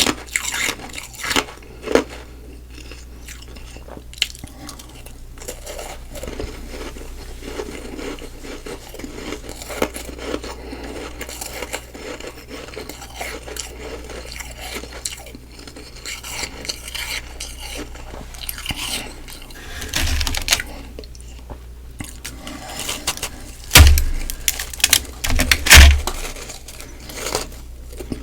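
Close-miked chewing and crunching of soft humidifier frost ice, a steady crackle of small crunches, with a few much louder bites and thuds late on.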